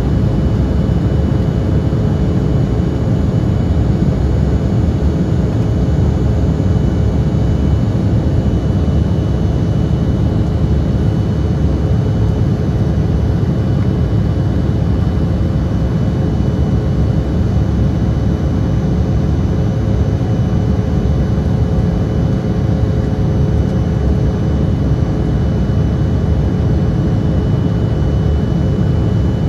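Steady cabin roar of an Embraer E175 in flight, its two GE CF34 turbofans and the rushing air making a deep, even noise with a couple of faint steady whining tones over it.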